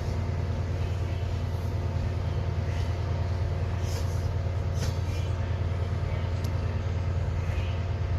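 Train running steadily in a station: a loud, even low hum with several steady tones above it and a few faint ticks and hisses.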